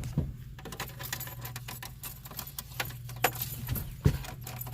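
Car keys jangling and clicking in short rattles, with the loudest clicks near the start and near the end, over a steady low hum.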